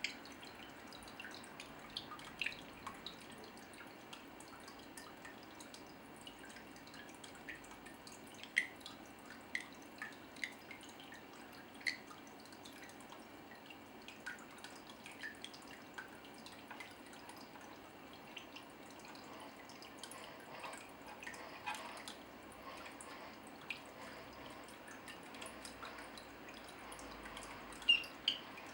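Water dripping: irregular single drops landing with short, bright plinks over a faint steady water hiss, with a louder pair of drops near the end.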